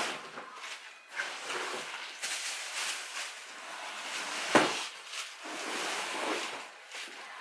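Paper food wrappers and bags rustling as fast-food burgers are handled, with one sharp knock about four and a half seconds in.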